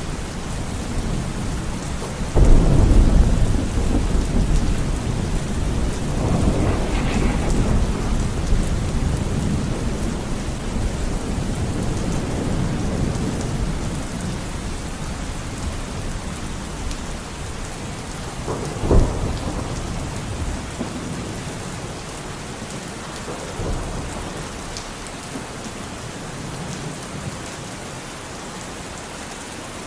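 Steady rain with rolling thunder: a loud low rumble breaks in about two seconds in and rolls on for several seconds, a short sharp crack comes about two-thirds of the way through, and the thunder dies down toward the end while the rain keeps on.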